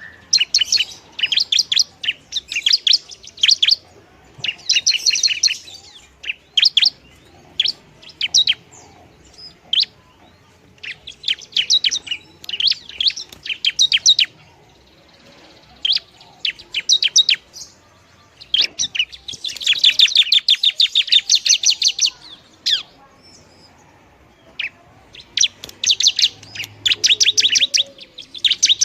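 Long-tailed shrike (pentet) singing: repeated bursts of rapid, sharp chattering notes separated by short pauses, with one longer run about twenty seconds in.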